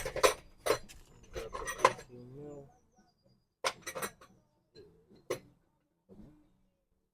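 Hand tools working on an engine: a series of sharp metallic clinks and knocks, thickest in the first two seconds, a few more about four and five seconds in.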